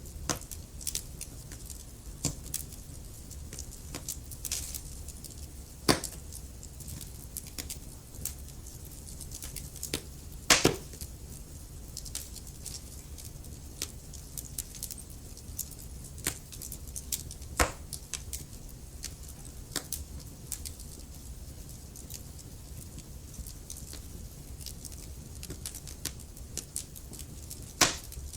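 Wood fire burning in a fireplace: a soft steady rumble and hiss with irregular crackles and sharp pops, a few louder pops standing out, including a brief cluster about ten seconds in.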